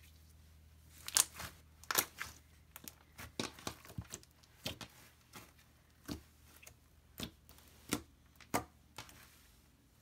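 Jelly slime with black jojoba beads being squeezed and stretched by hand, giving an irregular string of short, sharp pops and crackles, roughly two a second.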